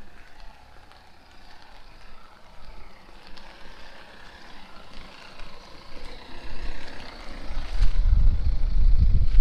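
Rainy street noise, a steady hiss that swells a little, then from about eight seconds in, strong wind buffeting the microphone with a loud low rumble.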